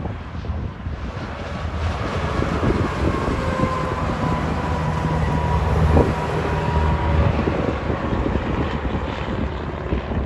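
Semi truck driving past: engine and tyre noise swell to a peak about six seconds in and then ease off, with a thin steady whine as it goes by. Wind buffets the microphone throughout.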